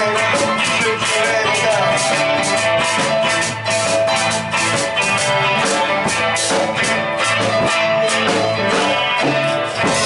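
A rock band playing live: guitar over a drum kit, with steady cymbal hits.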